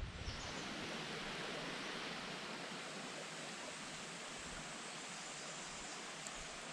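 Running water of a stream, a steady even rush.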